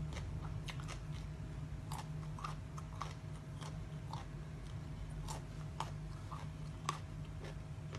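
A person chewing crunchy food close to the microphone, with irregular crisp crunches every fraction of a second.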